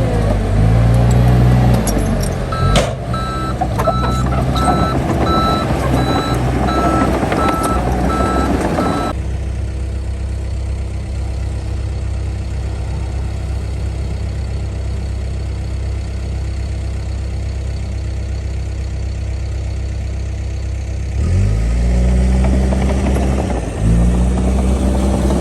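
Heavy diesel earthmoving machinery running, with a reversing alarm beeping in steady pulses for several seconds. The sound then changes abruptly to a steady engine drone, and near the end the engine revs up, dips and revs again.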